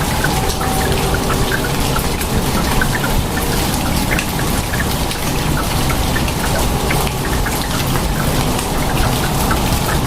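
Steady rain falling, with many individual drops ticking close by over an even, low rumble of heavier rainfall.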